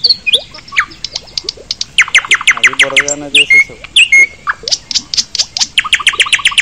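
Birds chirping loudly in rapid runs of short, high, falling notes, densest about two seconds in and again near the end.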